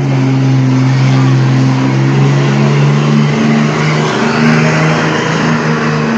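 Pulling truck's engine running hard at high, nearly steady revs, its pitch shifting only slightly.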